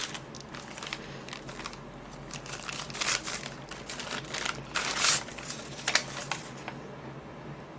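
Paper rustling and crinkling as it is handled, in irregular bursts that are loudest about three and five seconds in, with a few small clicks near the six-second mark.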